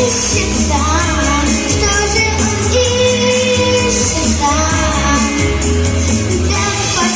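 A girl singing a children's pop song live over an amplified backing track with a steady bass beat.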